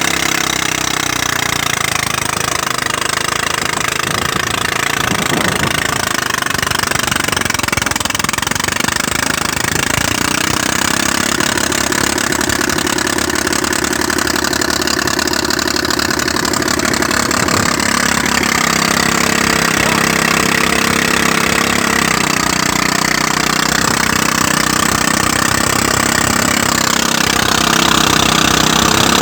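Engine-driven rice threshing machine running steadily. The engine note shifts in pitch a few times and grows a little louder near the end.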